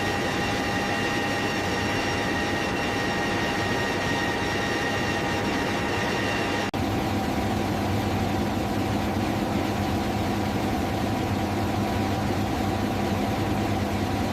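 Steady engine drone of a transport aircraft in flight, heard from inside the cabin. About seven seconds in the sound breaks off for an instant and resumes with a slightly different hum.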